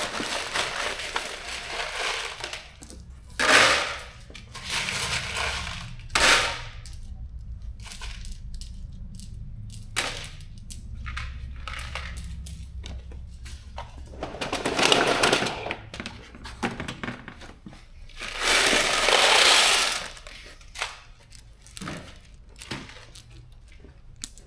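Handfuls of loose metal bolts and nuts clattering and rattling as they are dropped and sorted into a kit, in several bursts of a second or two with small clinks between.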